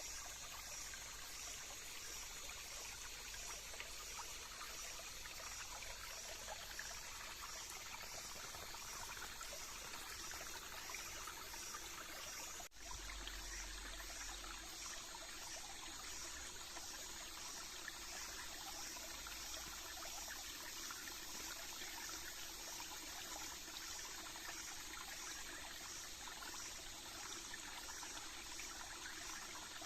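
Small hillside stream of water trickling and running steadily, with a faint high pulsing note above it.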